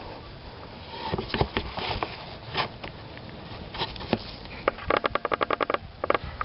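Hand tools clicking and clinking on metal, with scattered single knocks and a quick run of about a dozen evenly spaced, ringing clicks about five seconds in.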